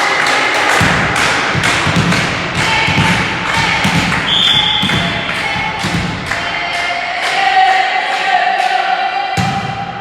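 Spectators clapping in a steady rhythm, about two and a half claps a second, with voices chanting or singing along.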